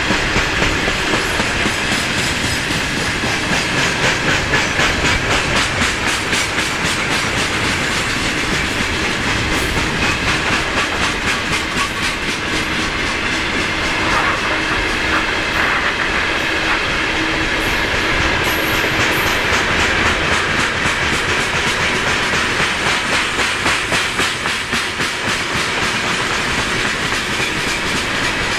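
Wagons of a loaded freight train rolling past, the wheels clattering over the rail joints in a steady, rhythmic clickety-clack.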